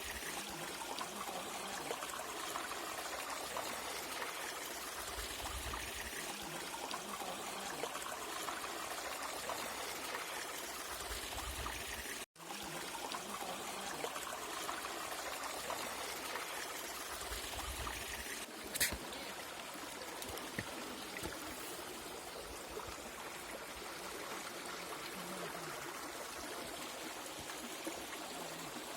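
Steady running water of a stream or waterfall. The sound drops out for an instant about twelve seconds in, and there is a single sharp click about nineteen seconds in.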